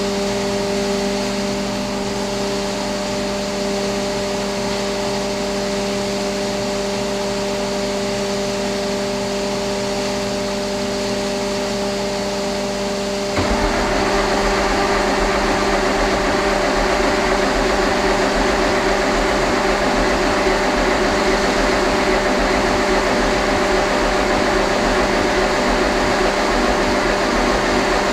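Eicher six-cylinder air-cooled diesel engine running with a steady whine. About halfway through it abruptly gets louder and rougher, with a deeper rumble added.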